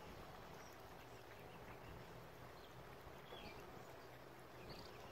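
Near silence: faint outdoor background with two brief, faint high bird chirps, about three and a half seconds in and near the end.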